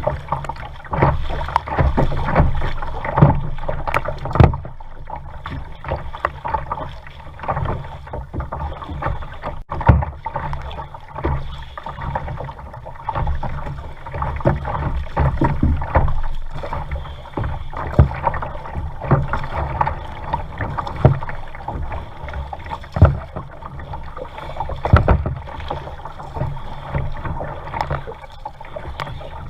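Kayak paddling on a lake: a paddle dipping and splashing in irregular strokes, with water slapping at the hull, over a steady low rumble.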